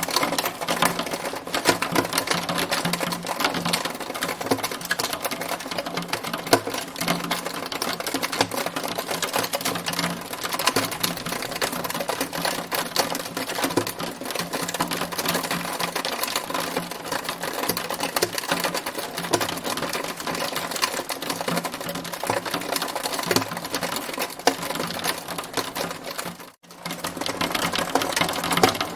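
Hail storm: a dense, fast, unbroken patter of hailstones striking. It drops out for an instant near the end.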